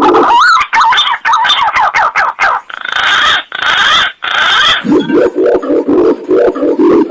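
Pigeon lure-call recording. It starts with a run of wavering whistles that rise and fall, typical of green pigeons (punai). About three seconds in come three harsh rasping bursts. Near five seconds a fast, regular series of low coos begins, about three to four a second.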